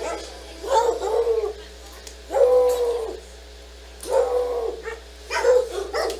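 A senior dog giving about four drawn-out barks, each under a second long and roughly a second apart, their pitch rising and falling.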